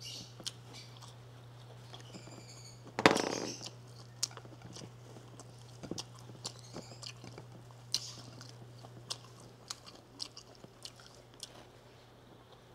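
Close-miked chewing of rice and sautéed bamboo shoots, with many small sharp mouth clicks and one louder, longer mouth noise about three seconds in, over a steady low hum.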